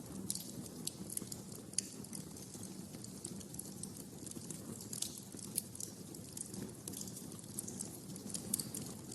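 Wood fire crackling in a fireplace: irregular sharp snaps and pops, a few louder than the rest, over a low steady rumble of the flames.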